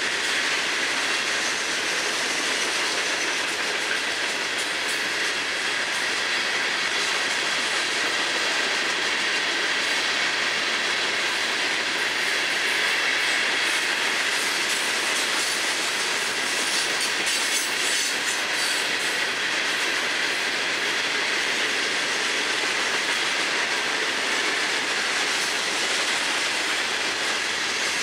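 Freight train hopper cars rolling past, a steady rumble and clatter of steel wheels on rail with a high steady tone running through it.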